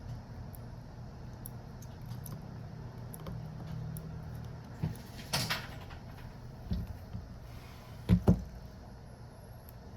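Small tools and phone parts being handled on a workbench: a few scattered clicks and knocks, the loudest a quick double knock near the end, over a low steady hum.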